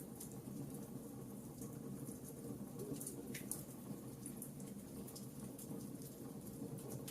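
Campfire burning: wood crackling with scattered sharp pops over a steady low rush of the flames, one crack standing out about three seconds in.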